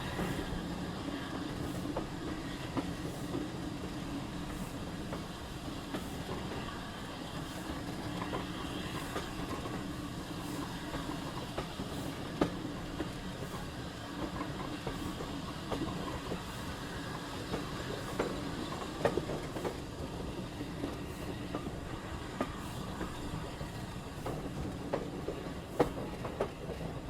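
A train running on its track: a steady rumble with scattered sharp clicks from the wheels and rails.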